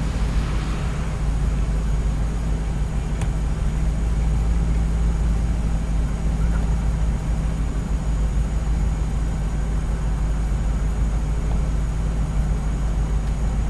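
1959 Cadillac's 390 V8 idling steadily with a low, even hum.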